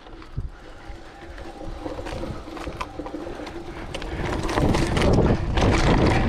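Wind rushing over the microphone during a mountain bike ride, swelling about four seconds in, over a faint steady low hum.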